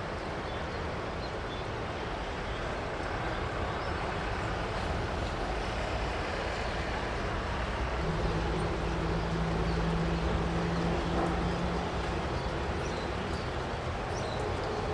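Widebody jet aircraft running, a steady rush that swells slightly toward the middle. A steady low hum comes in about halfway through and lasts a few seconds.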